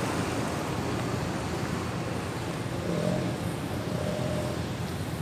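Lowered custom cars, led by a Honda kei wagon, driving slowly away at low speed, their engines and exhausts running with a steady low drone.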